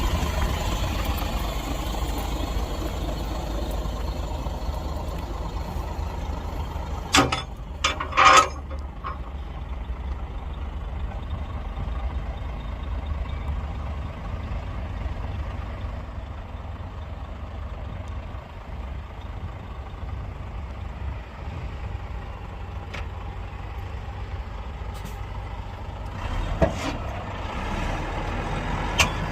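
Heavy diesel engines of earthmoving machinery running steadily with a deep rumble. About seven seconds in come three short, loud, sharp sounds in quick succession, and a couple of smaller ones come near the end.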